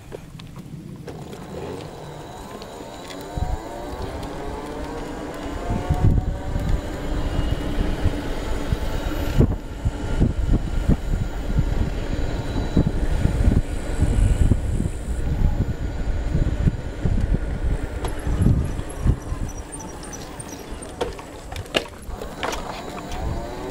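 Electric bicycle motor whining, rising in pitch as it speeds up, holding steady, then falling away and rising again near the end. Gusts of wind buffet the microphone throughout.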